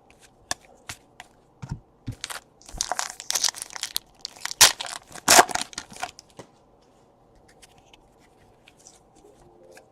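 Plastic-foil trading card pack wrapper being torn and crinkled, with cards being handled: irregular rustles and clicks over the first six seconds or so, then quiet.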